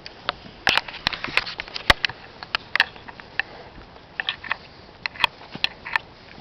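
Footsteps on a walking track: irregular sharp clicks, about one or two a second, over a faint steady background.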